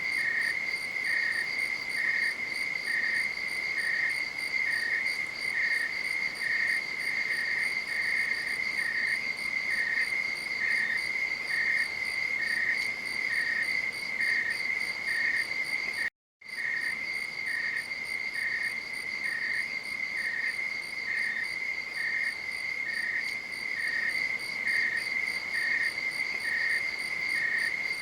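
Crickets trilling at night: a steady high-pitched trill, with a second insect chirping about once a second just below it. The sound cuts out completely for a moment about sixteen seconds in, then resumes.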